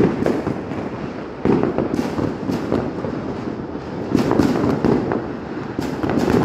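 Firecrackers and fireworks going off continuously in a dense run of cracks and bangs, swelling louder about one and a half seconds in and again around four seconds in.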